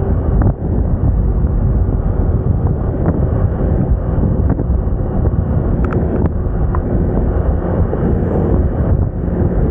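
Wind buffeting the microphone on a moving Moda Moca 110 scooter, with the scooter's small engine running steadily underneath.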